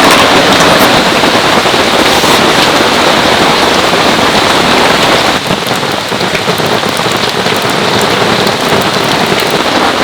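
Heavy downpour, a loud, dense, steady hiss of rain, dropping a little in level about five seconds in.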